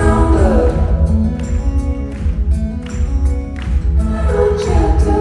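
Live band music at a rock concert, loud, with sung vocals over heavy bass.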